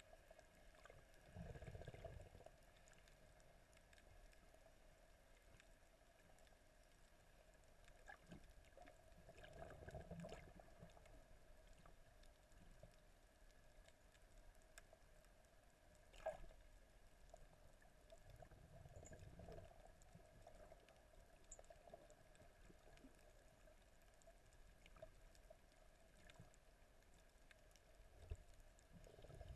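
Faint, muffled water sound, as heard by a camera held in the water: a steady low hum with soft swells of water movement three times and a couple of sharp clicks.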